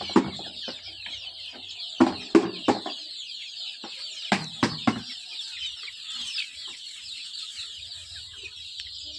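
A flock of poultry-farm chickens: a dense, continuous chorus of high peeping, with a few louder, sharper clucks and calls several times over the first five seconds.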